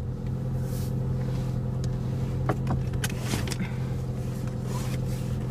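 Car engine idling with a steady hum, heard from inside the cabin. A few light clicks and knocks come in the middle, as the phone is handled.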